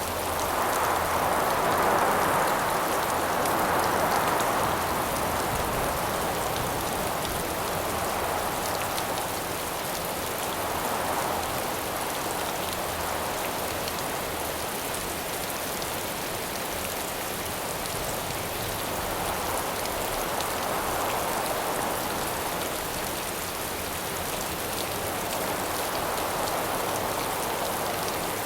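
Steady rain falling, with wind swelling and fading in gusts every several seconds, the strongest near the start.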